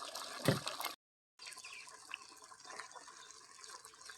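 Water trickling and splashing, with a knock about half a second in; the sound drops out completely for a moment just after one second and comes back quieter.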